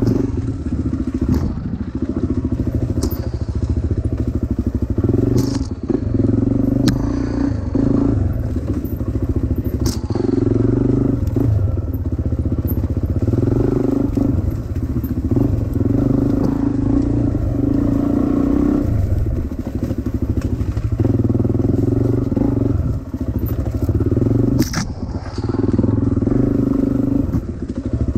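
Dirt bike engine running as it is ridden along a rough track, the throttle opening and closing every second or two, with a few sharp knocks and clatter from the bike over the ground.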